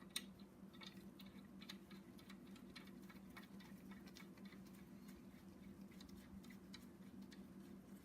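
Faint, scattered light metallic clicks and taps as the old bolts of a connecting rod cap are handled and threaded in by hand, over a steady low hum.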